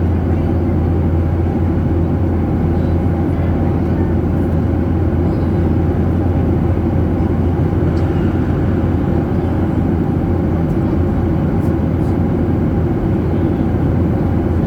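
Steady low drone of a jet airliner's engines and airflow heard from inside the passenger cabin, unchanging throughout.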